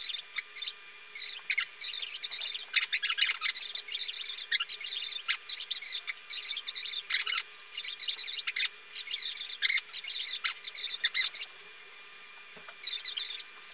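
Small birds chirping rapidly in quick, high-pitched bursts, with a pause of about a second and a half near the end.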